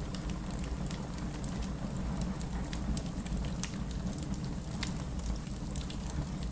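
Burning firewood crackling, with frequent sharp, irregular pops and snaps over a steady low rumble of the flames.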